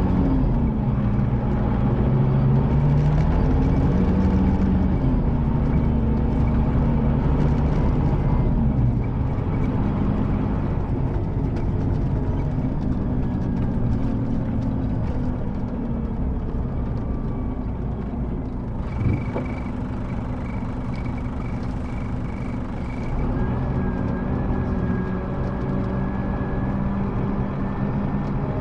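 Scania K310IB coach's diesel engine running, its pitch rising and falling with the throttle and gear changes in the first third, then steadier and a little quieter as the coach slows. There is a single knock about two-thirds through, followed by a faint high pulsing tone for a few seconds.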